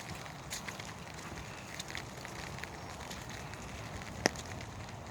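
Light rain falling, a steady hiss with scattered faint drop ticks, and one sharp click about four seconds in.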